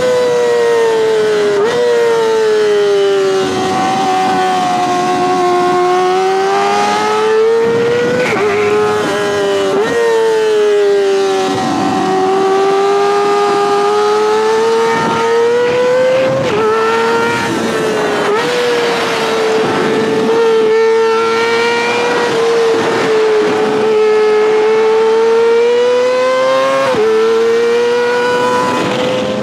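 Kawasaki ZX-25R's 249 cc inline-four engine running at high revs, heard from on the bike. Its high buzzing note rises and falls through the lap, with several sudden jumps in pitch.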